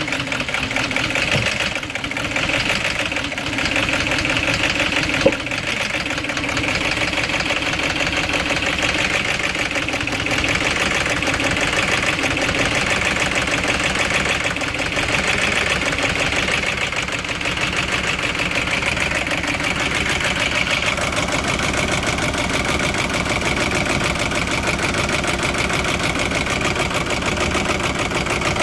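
Audi 4.2-litre V8 petrol engine (BAT code) idling after a cold start, with a fast rattle and uneven running. The owner puts these down to the timing chain and misfires. A single sharp click comes about five seconds in.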